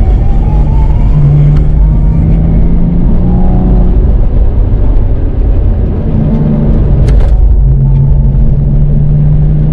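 Porsche 911 (997) flat-six engine running under way with road rumble. The engine note rises right at the start, then holds fairly steady, with a brief sharp click about seven seconds in.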